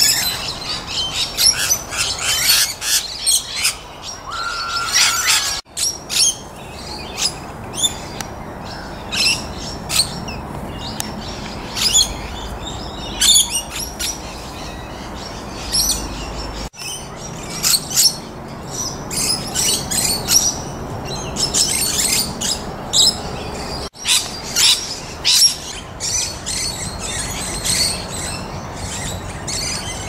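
Wild birds chirping and calling in many short, high-pitched notes, densest in the first few seconds. The sound breaks off sharply three times.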